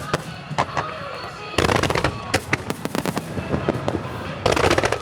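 Aerial fireworks shells bursting, with sharp reports and dense crackling stars that come in two loud clusters, about a second and a half in and again near the end.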